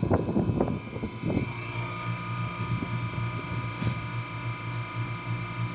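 Carlyle 06D semi-hermetic reciprocating compressor running with a steady, low pulsing hum and a faint steady whine, in good running condition. A few irregular knocks come in the first second and a half.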